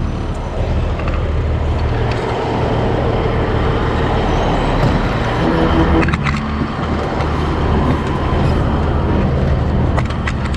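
Large vehicle engine running steadily, a low drone under a wash of mechanical and road-like noise, with a slight change in its note about halfway through.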